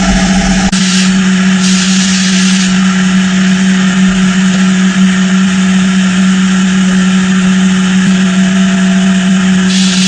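An electric power tool running steadily, with a constant hum under a noisy whir. A low rumble drops out just under a second in.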